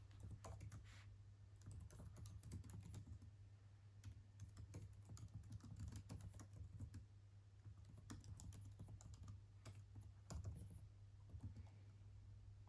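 Typing on a computer keyboard: quick runs of key clicks with short pauses between them, over a steady low hum.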